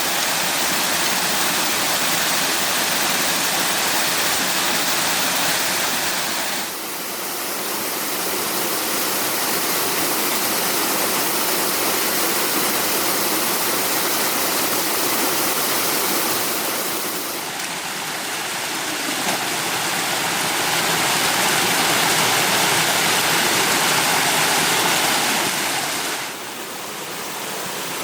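Steady rushing water, loud and even, changing abruptly in level and tone three times.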